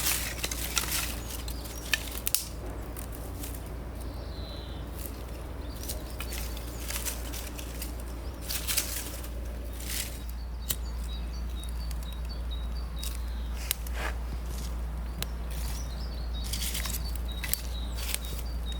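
Outdoor ambience with scattered clicks and rustles of something being handled, over a steady low rumble. About halfway through, a bird starts chirping: a run of short, high, repeated notes.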